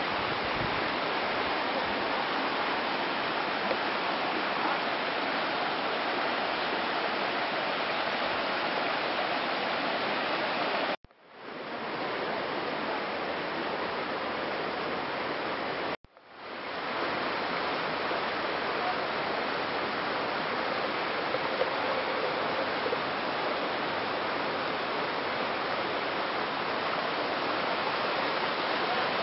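Steady rush of flowing floodwater, broken twice by abrupt cuts after which it fades back in.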